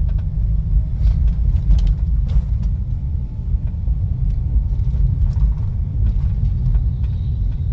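Steady low rumble of a car on the move, with a few faint clicks and rattles over it.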